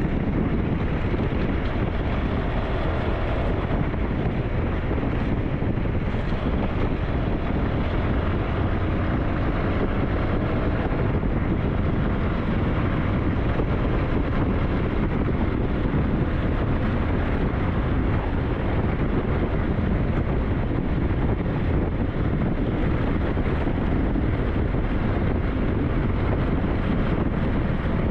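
SYM NH T 200 scooter running steadily on the move, with wind buffeting the microphone.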